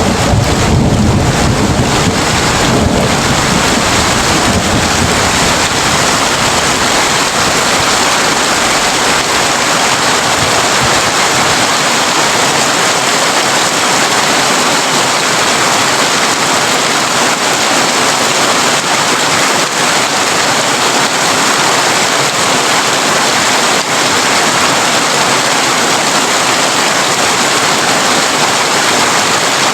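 Heavy rain drumming steadily on a tin roof, a dense, even hiss. A low thunder rumble under it at the start dies away within the first ten seconds or so.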